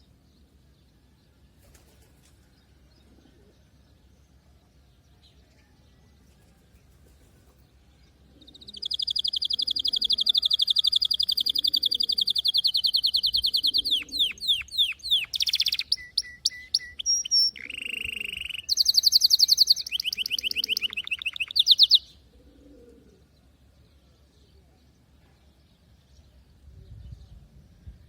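Domestic canary singing one song phrase: a long, fast trill at a steady high pitch, then a quick run of changing trills, falling sweeps and short lower notes, stopping abruptly. The song starts about 8 seconds in and ends about 22 seconds in.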